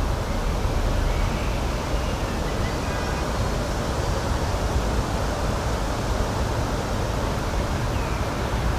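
Steady rushing outdoor noise, heaviest in the low end, with a few faint high chirps.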